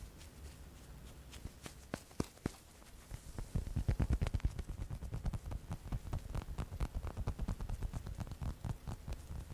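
Close-miked ASMR tapping: a few scattered taps at first, then fast, rapid tapping from about three seconds in, each tap a short deep thud.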